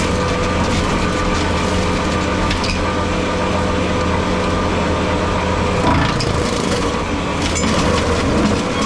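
Skid steer running steadily under load while its brush cutter attachment works, with scattered cracks and snaps of brush and small wood being cut.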